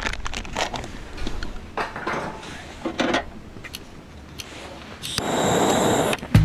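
A series of light knocks and clicks, as of wood or metal parts being handled and set down, then a louder steady hiss lasting about a second near the end.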